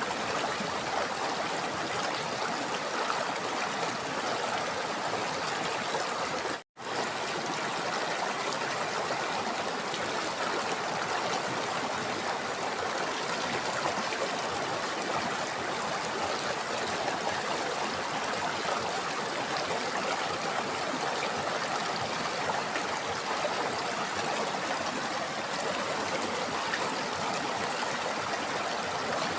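River water flowing steadily, a constant rushing sound. The sound cuts out completely for a split second about a quarter of the way through, then resumes unchanged.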